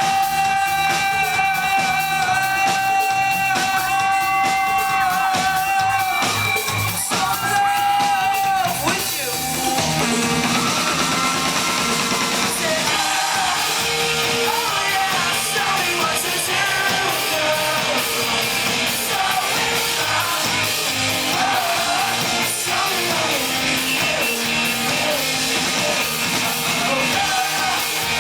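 Pop-rock band playing live with singing. A long held note opens the stretch, then the full band carries on.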